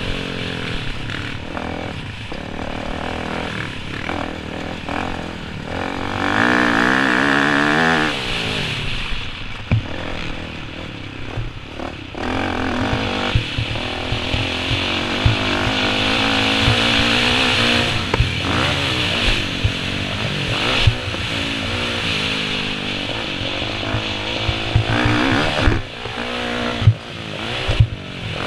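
Motocross dirt bike engine revving up and down over and over, pitch climbing and dropping as the throttle is worked, with loud full-throttle pulls about six seconds in and again from about twelve to eighteen seconds in. Short low thumps are scattered throughout.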